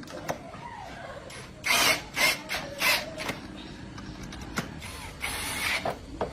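Workshop tool noise: several short bursts of power-tool-like noise and a few sharp clicks, the longest burst about five seconds in.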